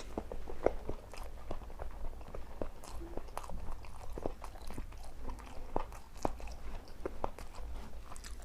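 Close-miked chewing of a person eating: irregular wet clicks and crunches of the mouth, a few strokes a second, over a steady low hum.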